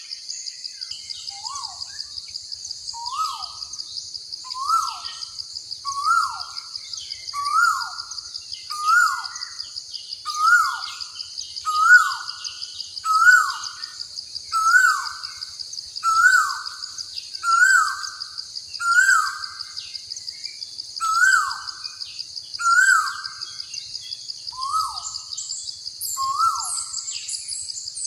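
A bird repeats a single short call, a quick rise then a falling slide, about every second and a half, over a steady high shrill buzz.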